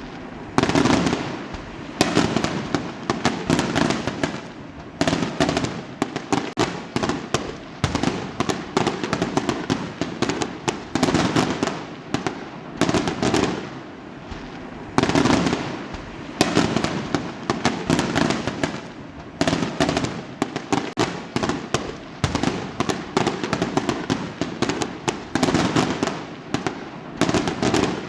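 Fireworks going off in quick succession: a sharp bang every one to three seconds, each trailing into dense crackling, with the crackles overlapping so there is no gap between them.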